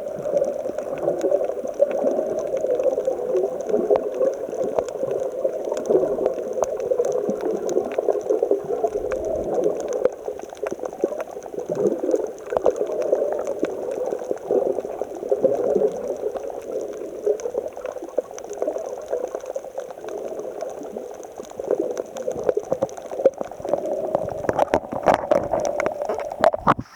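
Sea water gurgling and sloshing among rocks, a continuous churning with many small bubbly pops, a little stronger near the end.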